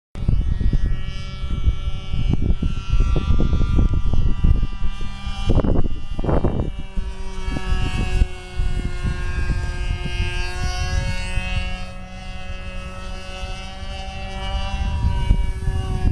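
Hobbico SuperStar model airplane's engine and propeller running in flight, a steady whine with small rises and falls in pitch. Heavy wind buffeting on the microphone underneath, with two strong gusts about six seconds in.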